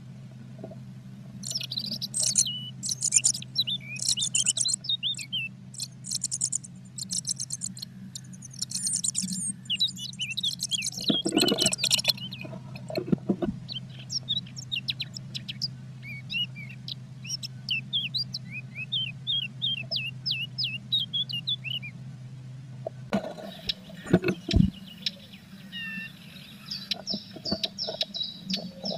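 Small songbirds chirping and trilling, picked up by a nest-box microphone, with fast high trills in the first half and a run of separate chirps after. A few dull knocks come around the middle and again near the end, over a steady low electrical hum. The audio plays 1.3 times fast, so it sounds higher than real.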